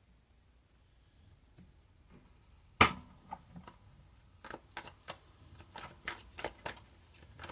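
Tarot cards being shuffled by hand. One sharp snap comes about three seconds in, then a run of quick card flicks and slaps, about three or four a second.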